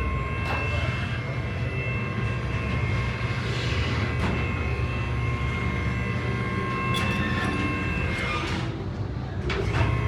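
Steady low mechanical rumble like a running engine, with a few steady high tones over it and several short sharp clicks and clanks.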